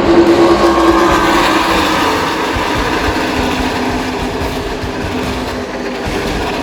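NASCAR Craftsman Truck Series race trucks' engines passing at speed on the track. The loudest pass comes near the start, its pitch falls as it goes by, and the sound then eases off slowly.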